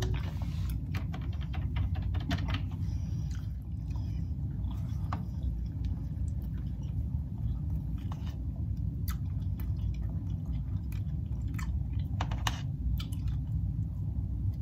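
Close-up chewing of soft food in sauce, with scattered short wet mouth clicks, over a steady low hum.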